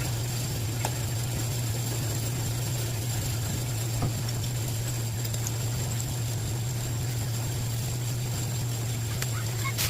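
Steady low machine hum at an even level, with a few faint light clicks about a second in, near the middle and shortly before the end.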